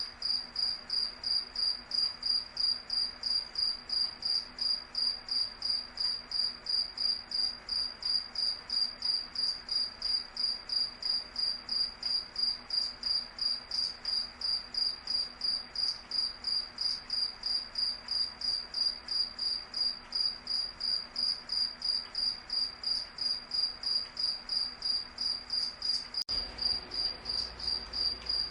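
A cricket chirping in a steady, even rhythm, about three high-pitched chirps a second.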